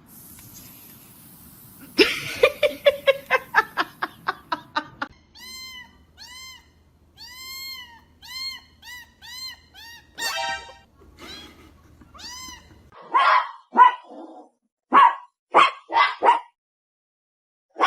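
A cat, likely a kitten, meowing over and over in short, high, evenly spaced meows, followed by a few louder, rougher meows near the end. A quick run of clicking pulses comes first, a couple of seconds in.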